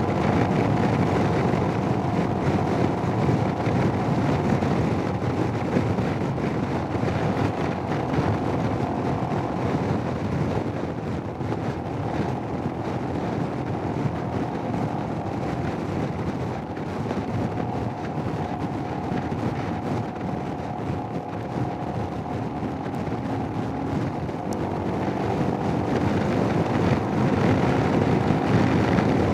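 Royal Enfield Himalayan motorcycle riding along, its engine running under heavy wind rush, recorded through a Sena 10C helmet intercom microphone. The noise eases off a little through the middle and builds again near the end.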